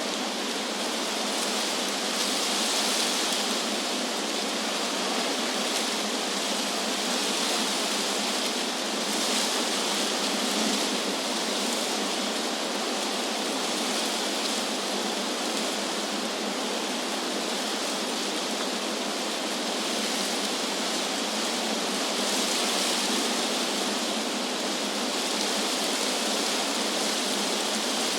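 Wind through trees: a steady, even rushing hiss that swells gently a few times.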